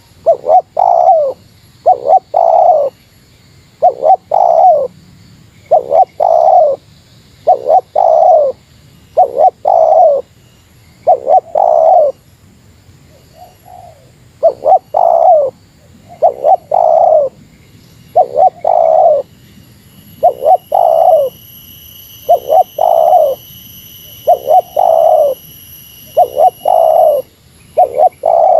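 Spotted dove (tekukur) cooing over and over in the 'meratus' style, a phrase of two short coos and a longer one about every two seconds, with a brief pause about halfway. A faint high steady whine sounds under the calls for several seconds in the second half.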